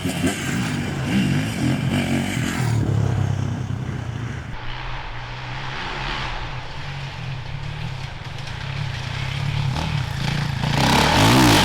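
Off-road enduro motorcycles riding past, engines revving up and down as the riders work the throttle over rough ground. One bike fades away in the first few seconds, the engine note carries on more quietly, and another bike comes up loud near the end.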